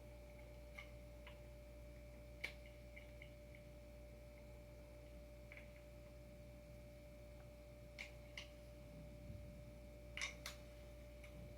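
Near silence with a faint steady hum, broken by a few scattered small clicks and taps of skateboard hardware and tools being handled while bolting on a surfskate adapter, two pairs coming close together near 8 and 10 seconds in.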